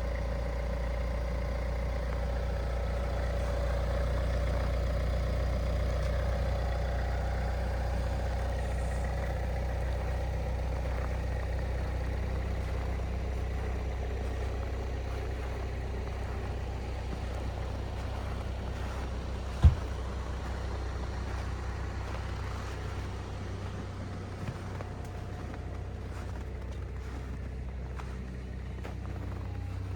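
A car running with a steady low rumble, and a single sharp knock about twenty seconds in.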